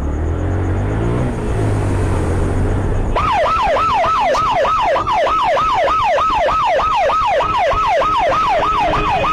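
A vehicle engine rumbles for about three seconds, then a police yelp siren cuts in abruptly, wailing up and down fast, about three sweeps a second.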